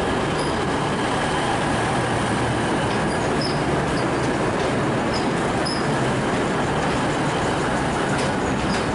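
V/Line VLocity diesel multiple unit passing close by along the platform: a steady diesel engine drone under continuous wheel-on-rail noise, with short high squeaks from the wheels every second or two.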